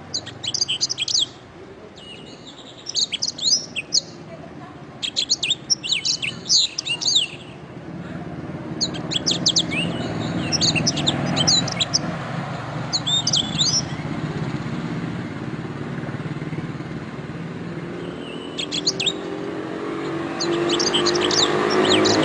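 Domestic canary singing in bursts of rapid high trills and warbles, about seven phrases separated by short pauses. A low steady rumble in the background grows louder toward the end.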